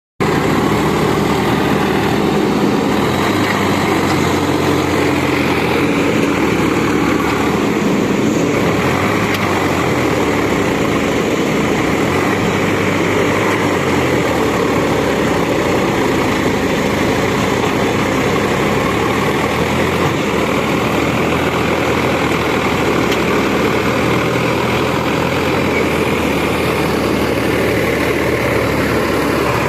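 JCB machine's heavy engine running steadily at an even speed, a constant low engine hum with no revving.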